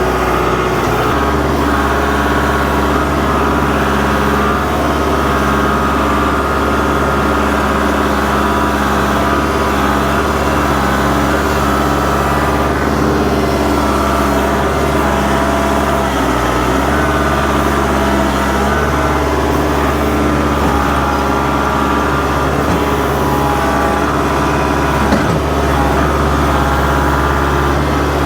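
Kubota L47 backhoe tractor's diesel engine running steadily under work. Its pitch sags briefly about halfway through, as if taking a load, and there are a couple of faint knocks near the end.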